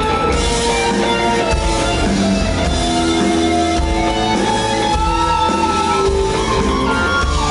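Live rock band playing an instrumental passage, with guitar over drums and a heavy low end.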